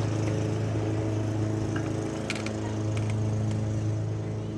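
A steady low hum, evenly pitched, with a few light clicks of hand tools on the engine about halfway through.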